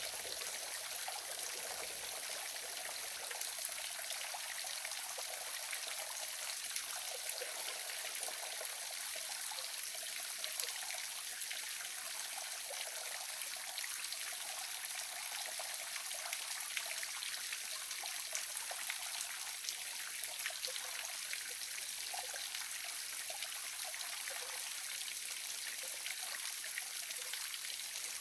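Waterfall splashing steadily: an even, continuous rush of falling water with small splashes, high and hissy, with little deep rumble.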